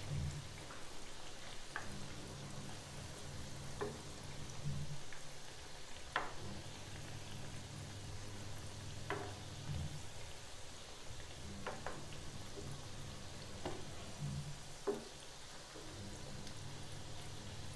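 Dalia (broken-wheat) patties shallow-frying in hot oil in a pan, a steady sizzle, with a dozen or so short clicks and pops scattered through it as a spoon turns them. A steady low hum sits underneath.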